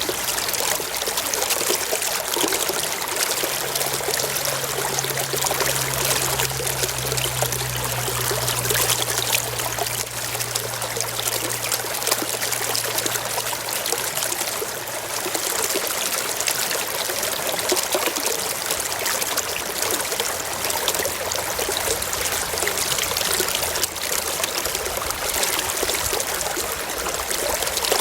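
Forest stream flowing and trickling, a steady rushing hiss of water. A faint low hum comes in a few seconds in and fades out about halfway through.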